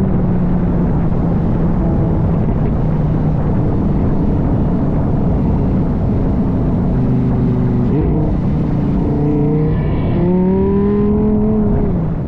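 Lamborghini Huracán Tecnica's naturally aspirated V10 running under moderate acceleration, its stock exhaust loud and steady. The engine note changes pitch about eight seconds in and climbs again near the end.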